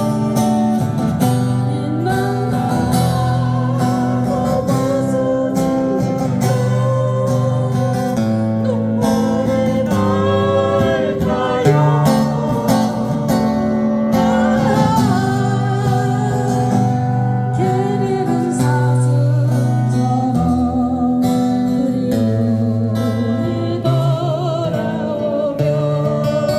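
Singing accompanied by strummed acoustic guitar, a slow song with a steady chord accompaniment.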